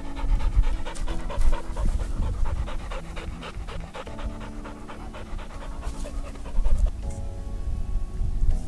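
A dog panting quickly and steadily over background music; the panting stops about seven seconds in and the music carries on.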